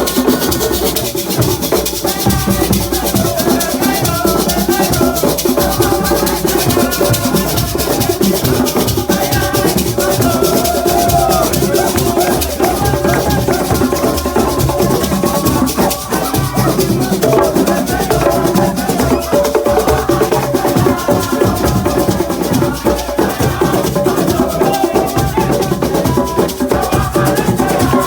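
Live group singing with steady drumming and a constant rattling shaker accompaniment.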